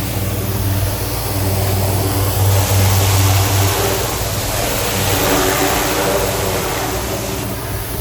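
An engine runs steadily at a low hum. A hissing rush swells over it from about two and a half seconds in and fades shortly before the end.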